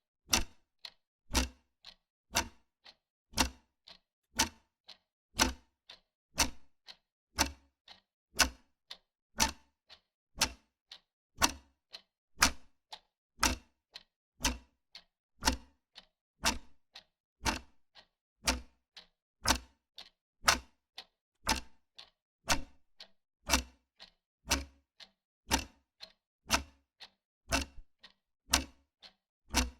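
Wall clock ticking steadily, about two ticks a second, a louder tick alternating with a softer tock.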